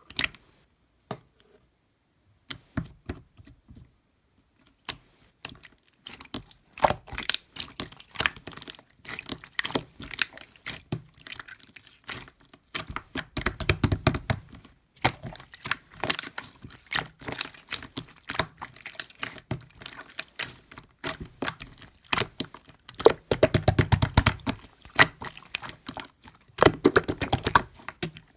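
Slime being squeezed, poked and stretched by hand, giving a dense run of small clicks and crackling pops, sparse at first and then almost continuous, with a few heavier squishy thuds.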